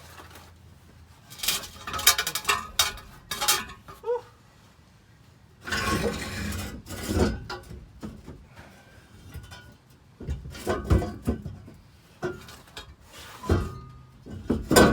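Irregular metal clanks and knocks, with a longer scrape about six seconds in: old exhaust pipe and hardware being worked loose and shifted under a pickup truck.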